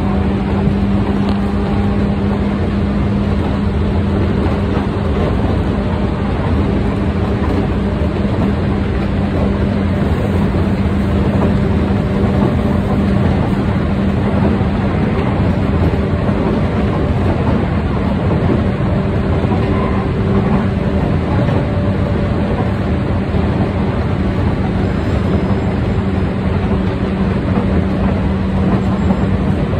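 Tokyu 8500 series electric train running at speed, heard from inside a car: a steady rumble of wheels on rail under a constant motor hum.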